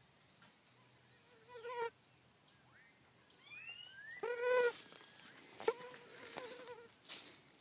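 Birds calling: a few short rising whistles and some louder, fuller calls, the loudest about halfway through. Rustling and brushing noises join in the second half.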